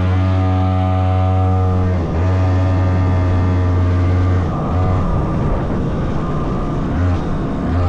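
100cc racing engine running at a steady, even pitch, breaking off briefly about two seconds in, then cutting in and out in short spurts through the second half.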